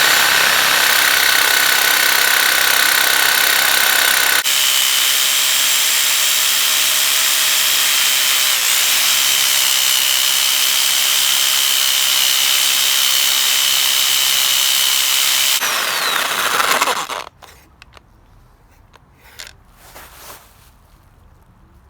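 Power saw cutting through metal on a car, a loud steady cutting noise with a high whine that shifts pitch about four seconds in. It stops suddenly after about seventeen seconds, leaving only faint small sounds.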